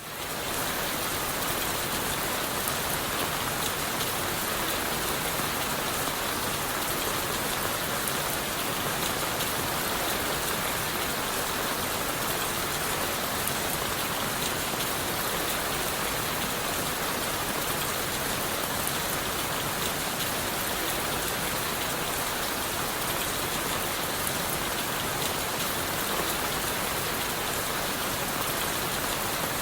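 Steady rain falling on leaves and wood, a dense even patter with fine individual drop ticks. It fades in at the very start, then holds level.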